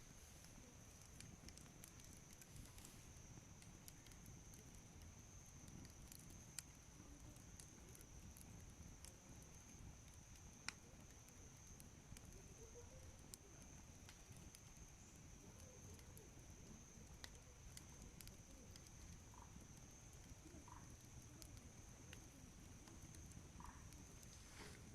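Wood campfire burning quietly: faint, scattered crackles and pops over a low rumble, a couple of them sharper, with a faint steady high tone behind.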